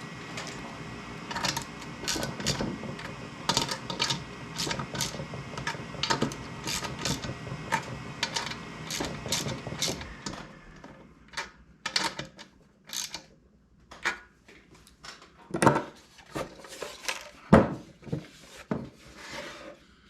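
Hand work on diesel heater parts: rhythmic rasping, rubbing strokes about twice a second for roughly ten seconds, then scattered sharp knocks and clunks of parts being handled.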